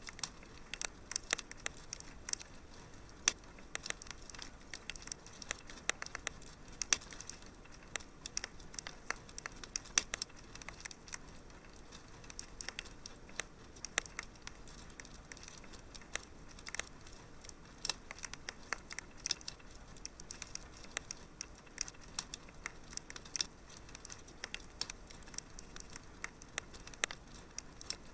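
Wood fire crackling in a fireplace: irregular small pops and snaps over a soft steady hiss.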